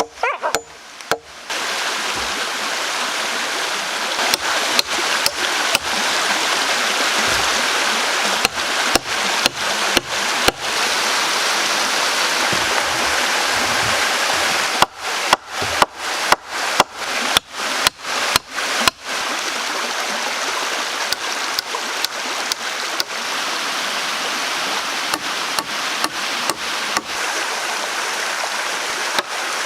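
Water flowing steadily, like a forest stream or small cascade, broken many times by brief dropouts with clicks. The dropouts come about twice a second from about 15 to 19 seconds in.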